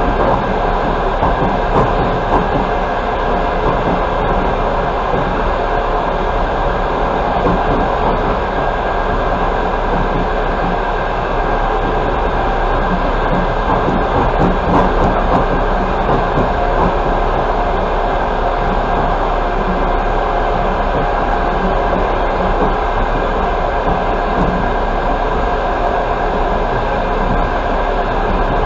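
Steady running noise of an express passenger train at speed, heard from inside the carriage: a continuous rumble of wheels on the rails.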